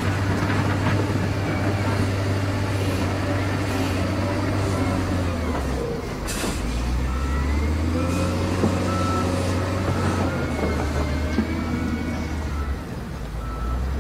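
Heavy diesel engine running with a steady low drone that shifts in pitch about halfway through. A short hiss comes soon after, and then a reversing alarm beeps repeatedly, as a truck backs up.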